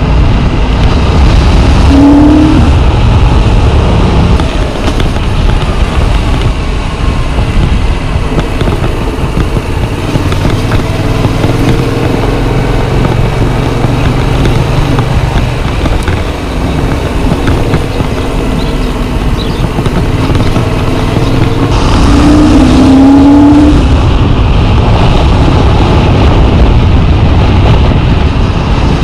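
Yamaha MT-07's 689 cc parallel-twin engine running while riding, with rushing wind noise on the chest-mounted microphone. The revs rise briefly about two seconds in and again past twenty seconds, where it gets louder.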